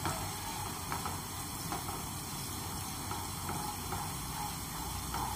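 Green chillies and ginger-garlic paste sizzling in hot oil in a kadhai, stirred with a wooden spatula that lightly scrapes and taps the pan now and then.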